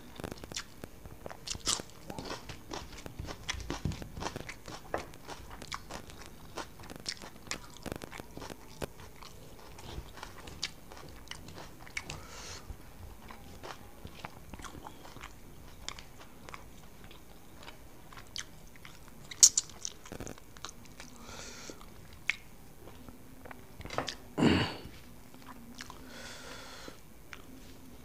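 Close-up mouth sounds of a person chewing and smacking on a mouthful of rice eaten by hand, with many small wet clicks. There is one sharp louder click about two-thirds of the way in and a heavier, louder mouth sound a few seconds later.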